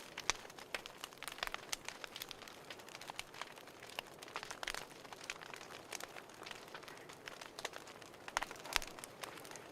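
Fireplace fire crackling: irregular small pops and snaps over a faint hiss, with a few louder pops near the start and near the end.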